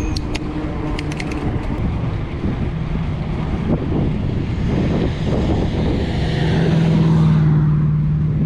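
Mountain bike riding noise: a steady rumble of tyres and wind on the microphone, with a few light clicks in the first second and a half. A motor vehicle goes by, loudest about seven seconds in.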